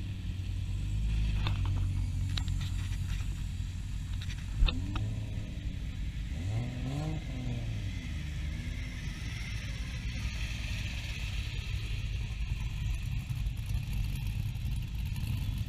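Car engines rumbling at low speed as cars drive past one after another. Partway through comes a single sharp crack, then one engine is revved up and back down.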